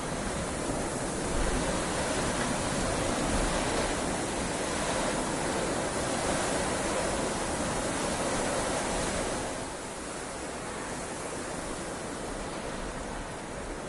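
Heavy rain falling steadily as an even hiss, growing a little louder about a second in and easing back near the end.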